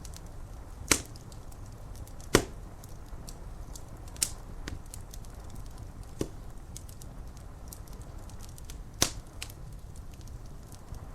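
Wood fire crackling, with a few sharp, loud pops spread through, over a steady low rumble and light ticking of rain on window glass.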